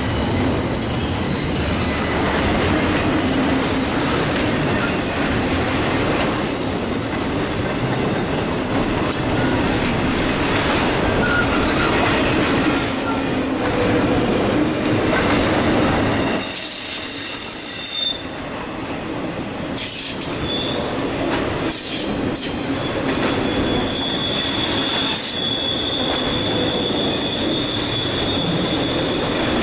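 Cars of an eastbound intermodal freight train rolling past on the main line: a steady heavy rumble of wheels on rail, with thin high-pitched wheel squeal and some clickety-clack. The rumble dips briefly about two-thirds of the way through.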